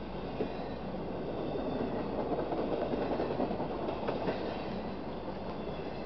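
Empty intermodal cars of a CSX freight train rolling past, a steady rumble and clatter of steel wheels on rail that swells louder in the middle, with a few sharp clanks.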